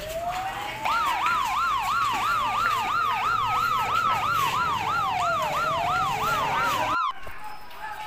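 Police siren sound effect played from a loudspeaker: a slow rising wail joined about a second in by a fast warble of roughly three cycles a second. It cuts off abruptly about seven seconds in.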